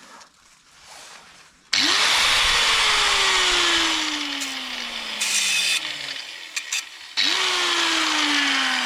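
Electric power tool worked on a stuck fence bolt in two runs: each time the motor starts suddenly and loudly, then its whine falls steadily in pitch over about four seconds as it slows. The second run begins about seven seconds in.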